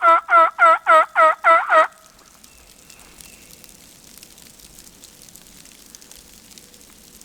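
A loud run of hen-turkey yelps on a hunter's turkey call, about three notes a second, each note breaking down in pitch, stopping about two seconds in. After it, light rain falling on the leaves.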